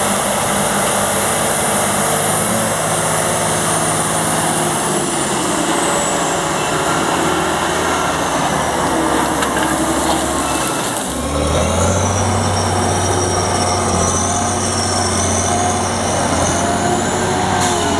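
Heavy farm tractor's large diesel engine running steadily, with a high whine above the engine drone. The sound changes abruptly about eleven seconds in, settling to a slightly higher, steady drone.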